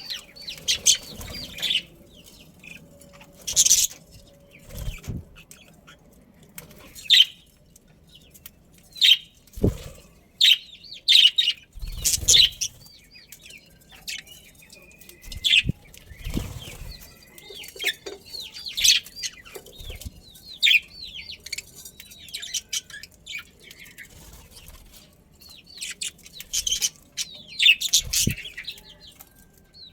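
Budgerigars chirping: a steady stream of short, quick chirps, often several birds at once, with a few soft low thumps scattered through.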